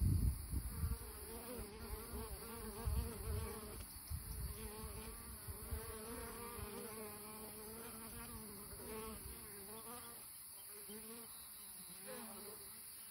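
Honeybees of a wild colony buzzing steadily at their nest in an olive tree hollow, the pitch wavering as individual bees fly close past. Low rumbling thumps sound during the first few seconds.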